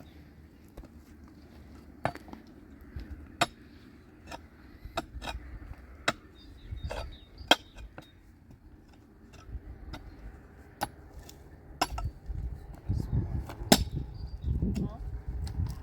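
Irregular sharp knocks and clinks, about a dozen, spaced unevenly, with low rumbling noise building in the last few seconds.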